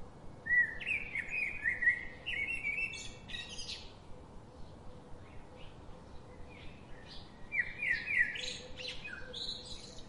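A songbird singing: two bursts of quick, varied chirping phrases, one starting about half a second in and another around seven seconds in, over a faint steady hum.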